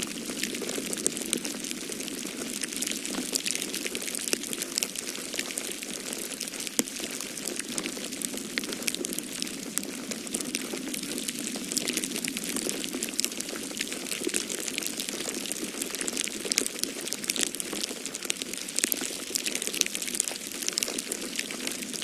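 Wood fire crackling in a fireplace, with dense, irregular small pops, over a steady rushing snowstorm wind.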